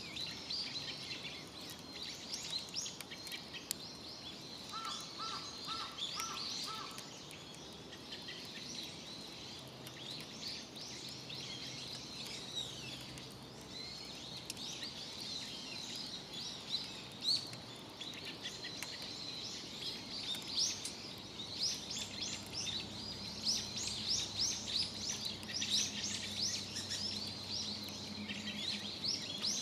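Outdoor ambience with small birds chirping throughout, busier near the end, including a run of five short even notes about five seconds in. A faint low steady hum comes in about two-thirds of the way through.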